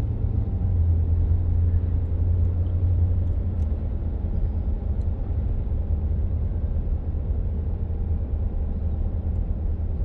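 Steady low rumble of a car heard from inside the cabin while driving: road and engine noise.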